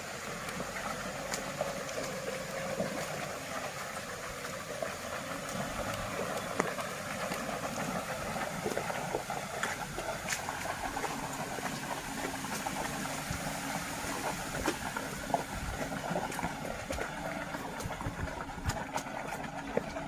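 4x4 pickup truck driving on a muddy dirt road: steady engine and road noise with a hiss, and scattered knocks and clicks that come more often near the end.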